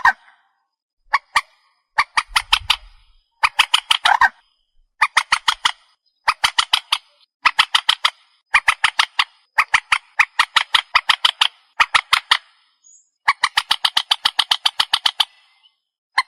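Recorded lure call of the trích ré waterbird: bursts of rapid, harsh repeated notes, each about a second long, separated by short pauses, with one longer run near the end.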